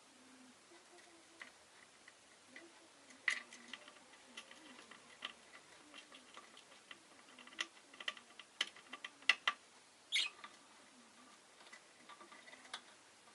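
Scattered small clicks and ticks from a pet rosy-faced lovebird moving about, with two short louder sounds about three and ten seconds in and a quick run of sharper clicks between them.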